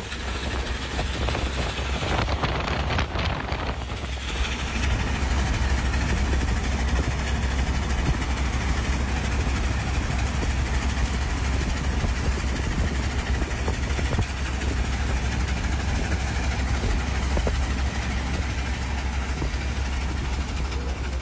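Canadian Pacific's Empress steam train, locomotive 2816 with its diesel units, rolling past: a steady, loud rumble with a heavy low roar.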